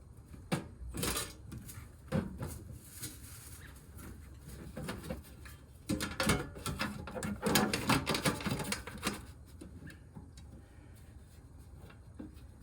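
Scattered knocks, clicks and scraping of metal parts being handled during hands-on work on a heat pump unit, with a busier run of rattling and scraping in the middle stretch.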